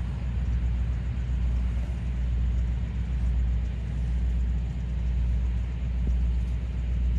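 Steady low engine hum from a motor running without a break.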